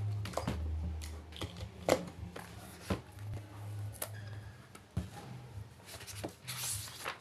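Scattered small taps and clicks of objects being handled, over a low steady hum, with a short rustle near the end.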